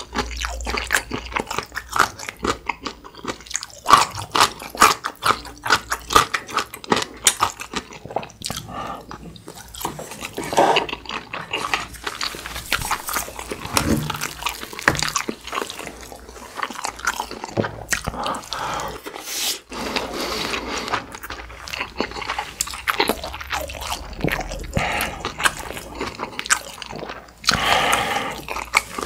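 Close-miked eating sounds: chewing and biting, with many small, irregular wet clicks and smacks from the mouth.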